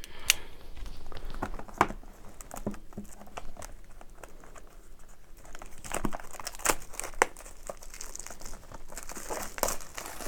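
Packaging of a hockey card hobby box being handled and opened: plastic wrap crinkling and cardboard rustling, with several sharp snaps and a brighter crinkle near the end.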